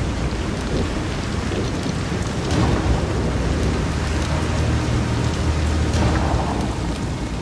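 Heavy rain falling steadily, with a continuous low rolling rumble of thunder underneath.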